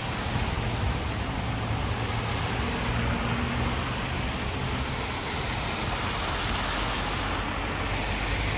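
Steady rushing noise of a flooded street, floodwater and traffic together, with a low rumble underneath.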